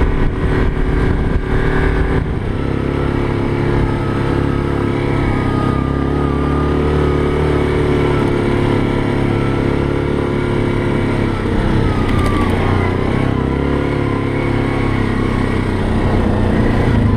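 ATV engine running steadily while riding, its pitch drifting slightly up and down with the throttle, with a faint wavering whine above it.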